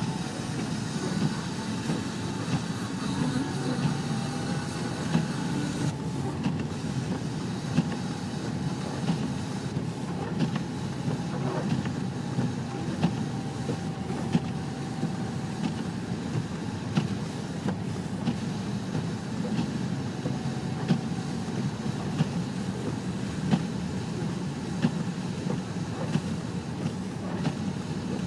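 Steady road and engine rumble inside a moving car driving through snow, with short sharp ticks about once a second.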